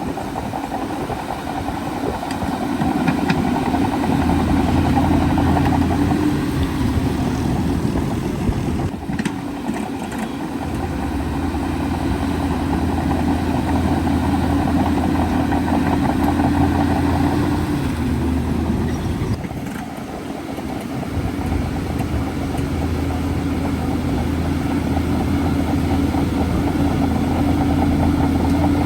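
Bulldozer's diesel engine running continuously as it works, its loudness swelling and easing, with brief dips twice.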